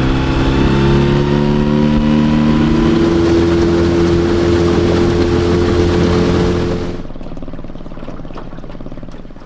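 Jon boat's outboard motor running under throttle as the boat pulls away, its pitch rising over the first few seconds and then holding steady. About seven seconds in the sound drops to a quieter, duller level, and it falls away near the end.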